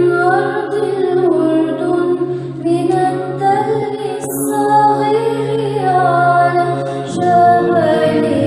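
Women's voices singing Byzantine chant a cappella in the third tone, a moving melody over a steady held drone note (the ison), which shifts about seven seconds in.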